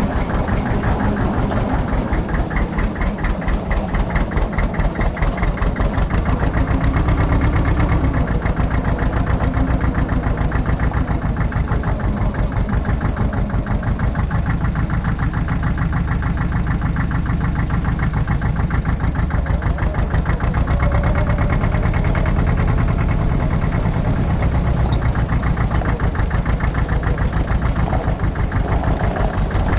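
Allis-Chalmers 5020 compact tractor's diesel engine running steadily, with an even, rapid firing pulse.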